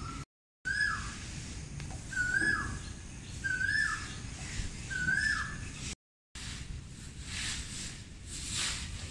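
A bird calls four times, about a second apart, each a short whistled note that rises and then drops. After a cut come a few faint swishing sounds, about one a second.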